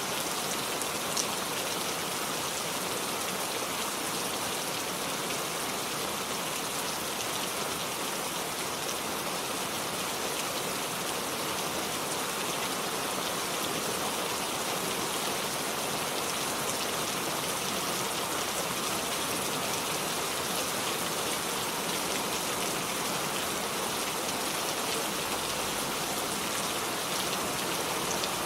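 Steady rainfall: an even hiss of rain falling on surfaces, with one brief sharp click about a second in.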